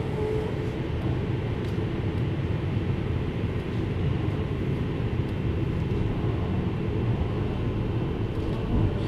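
JR Hokkaido 733 series electric train running at a steady pace, a constant low rumble of wheels on rails.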